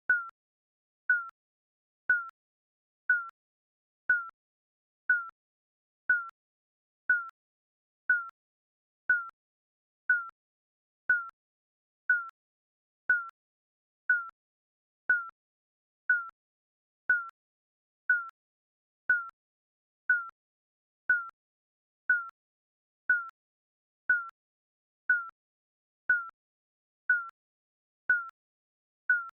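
Digital countdown-timer beep sounding once a second, each a short single high tone that fades quickly.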